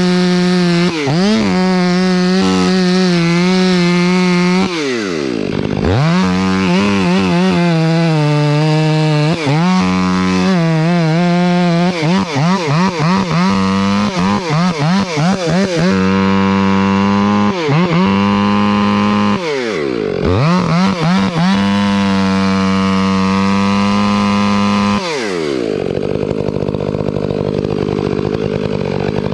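Two-stroke chainsaw running at high revs and cutting wood. The throttle drops and the engine revs back up a few times. Near the end it runs at lower revs.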